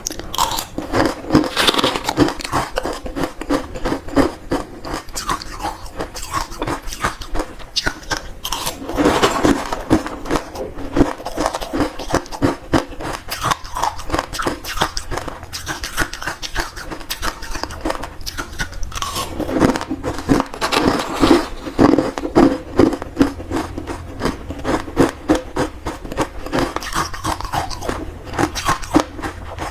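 Close-up crunching of hard ice being bitten and chewed, a rapid run of crackling cracks that keeps going.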